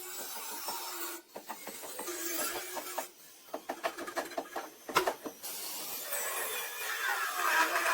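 Hand-tool work on metal: scraping and rubbing, with a quick run of taps around the middle ending in a sharp knock about five seconds in.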